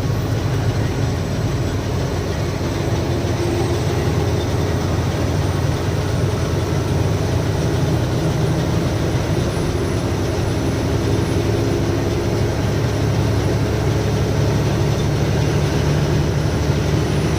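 Heavy truck's diesel engine running steadily while cruising on the highway, with road noise.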